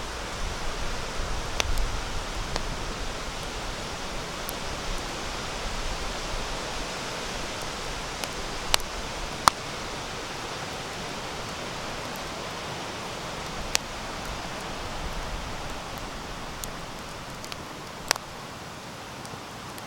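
Campfire of sawtooth oak logs burning with a steady hiss, broken by about five sharp pops from the wood, the loudest about halfway through.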